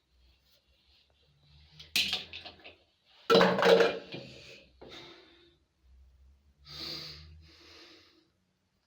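A few separate clattering knocks of hard objects being handled, the loudest about three and a half seconds in.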